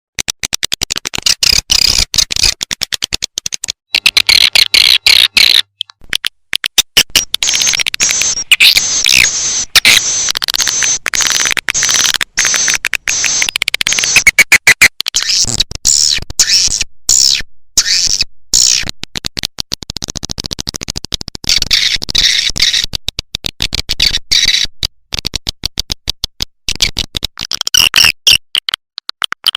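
Swiftlet lure recording: a dense, rapid twittering of many swiftlet chirps and clicks, high-pitched and unbroken, the calling sound played to draw swiftlets into a nesting house.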